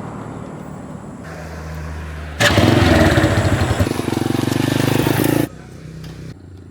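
Motorcycle engine running steadily; about two and a half seconds in it becomes much louder and fuller for about three seconds, then drops back suddenly.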